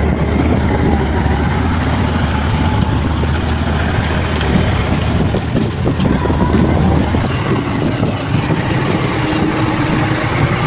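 Bulldozer's diesel engine running steadily; its deep low hum drops away about halfway through.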